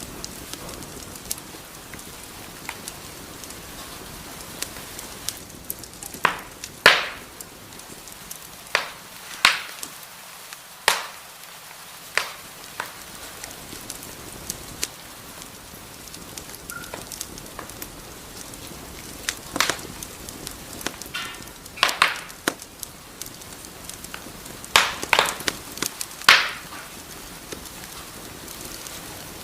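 Wood fire burning in a fireplace: a steady soft hiss with sharp, irregular crackles and pops, some coming in quick clusters of several loud snaps.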